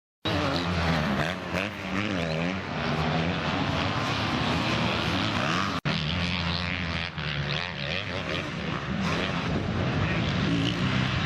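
Motocross bike engines revving on the track, their pitch rising and falling as the riders work the throttle. The sound starts abruptly and drops out for an instant about six seconds in.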